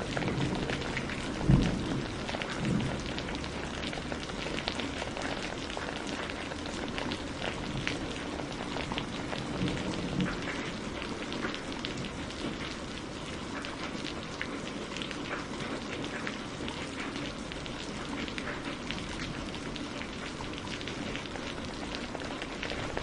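Steady rain falling, with many separate drops ticking over an even hiss. Near the start a low rumble, with one sharp loud thud about a second and a half in, fades out within a few seconds.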